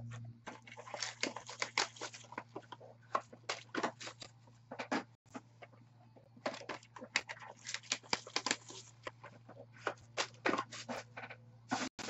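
Dense, irregular crackling and rustling of trading-card packaging being handled and opened, in two long spells with a short pause between them, over a steady low hum.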